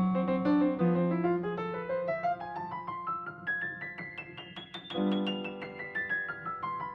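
Solo piano music: a run of notes climbs steadily in pitch until about five seconds in, then a low note sounds and the line steps back down.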